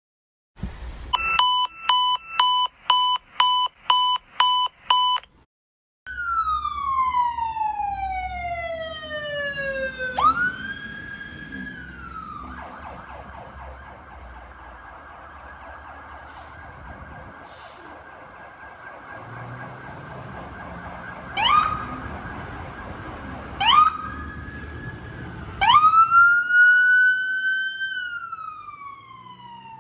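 Emergency-vehicle sirens on a responding fire engine and ambulance. About ten short steady-pitched blasts, two a second, come first. Then a long wail winds down and rises again, with quick upward yelps later and a final wail that slowly falls away.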